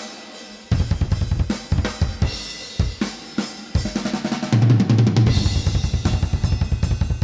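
Metal drum track played back through the UAD Ampex ATR-102 tape-machine emulation plugin, which adds harmonics: snare and cymbal hits, then from about halfway a rapid bass-drum pattern under the cymbals.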